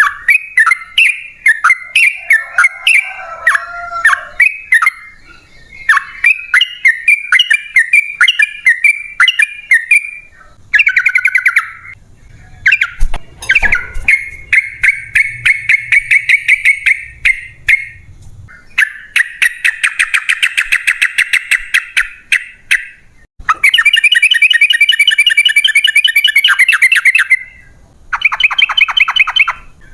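Yellow-vented bulbul (trucukan) singing loudly: short bubbly phrases, then from about halfway on several long, rapid chattering trills of a few seconds each, the 'ropel panjang' song used as a lure to make other bulbuls answer.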